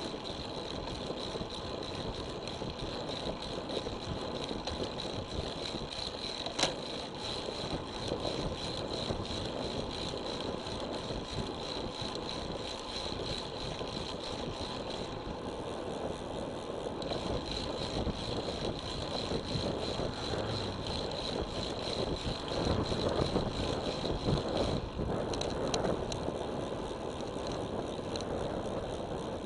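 Road bike in motion: a steady rush of tyre and wind noise with rattling from the bike and a thin, steady high whine. There is one sharp click about seven seconds in, and the noise grows rougher and louder for a few seconds near the end.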